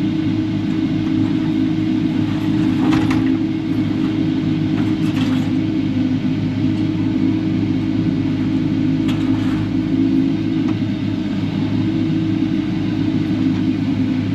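Kubota KX080-4 excavator's diesel engine running steadily while digging. A few brief scrapes or clanks come through about 3, 5 and 9 seconds in.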